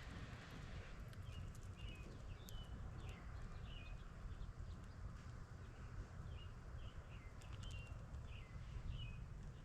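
A small songbird chirping repeatedly: short, slurred chirps, irregular but about one to two a second, over a steady low rumble.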